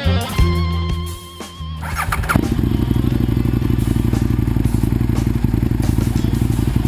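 Rock music with guitar breaks off, and about two seconds in an Aprilia Tuono motorcycle engine starts and settles straight into a steady, even idle.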